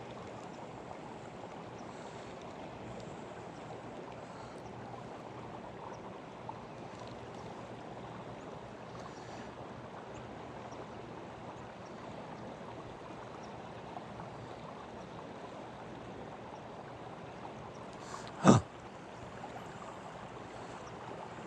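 Swift river current flowing steadily, with one short loud thump near the end.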